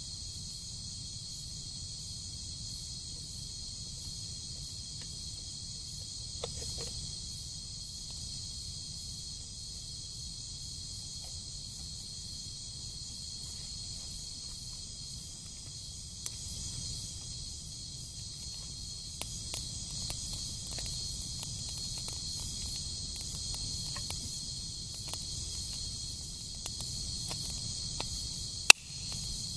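Steady high-pitched chorus of insects chirring in several layered tones, over a low steady rumble. Scattered light clicks come in the second half, and one sharp click near the end is the loudest sound.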